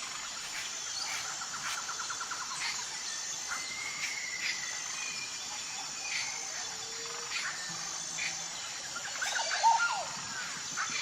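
Several songbirds chirping and calling over one another: short whistled notes, quick downward chirps and a rapid trill, over a steady high-pitched drone.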